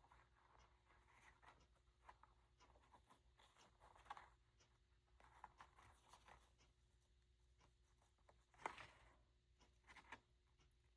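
Near silence with faint paper and lace handling: soft rustles and small ticks, with one louder rustle about three-quarters of the way through.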